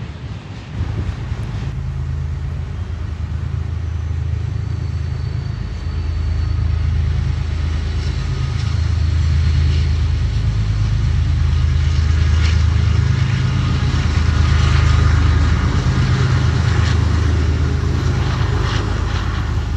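Slow-moving coal train passing, with a diesel locomotive's engine running in a steady low hum that grows louder to a peak about three quarters of the way through. A faint high squeal and scattered clicks from the wheels on the rails are heard over it.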